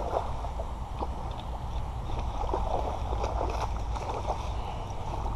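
Hooked largemouth bass thrashing in shallow creek water: irregular splashes over a steady low rumble.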